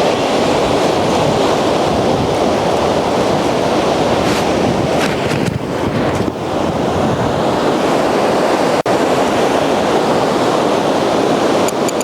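Loud, steady wind buffeting the microphone, mixed with the rush of surf on the beach. The noise briefly cuts out about nine seconds in.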